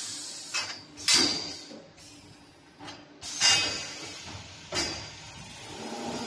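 CNC double-head automatic-feeding chamfering machine cycling: a series of sharp mechanical clunks, each with a short hiss, as the feed and clamping move. A steady running sound with a low hum builds up again near the end.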